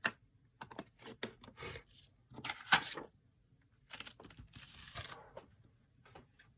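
Paper being handled at a craft desk: a few light taps and clicks, then several rustling, scraping bursts of paper, the loudest about three seconds in and a longer one a second or so later.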